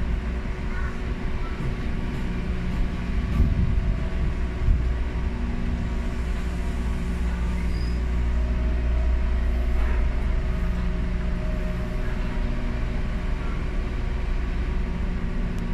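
Running sound inside a Ryutetsu 5000 series electric commuter train (a former Seibu new 101 series car) moving slowly as it draws into a station: a steady low rumble with a faint hum, and two sharp knocks from the wheels about three and a half and five seconds in.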